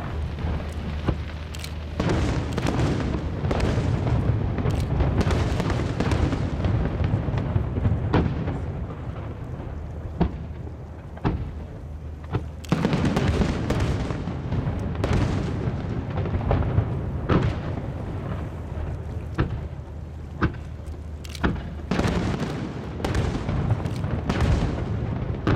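Aerial firework shells bursting in rapid succession: many sharp bangs over a continuous crackling rumble, busiest near the start and again in the second half.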